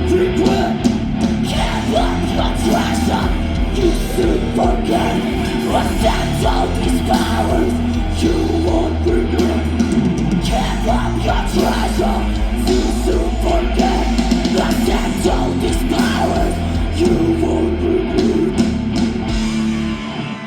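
Live heavy rock band playing loud, with heavy bass, drums and guitars; the music drops away near the end.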